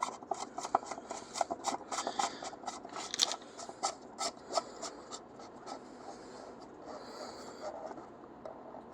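Oil filter housing cap being turned by hand on its threads: a run of small irregular clicks and scrapes for about five seconds, then fainter rubbing as it is re-threaded straight.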